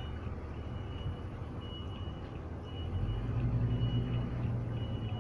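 Low, steady engine rumble that grows louder about three seconds in, with a faint broken high tone above it.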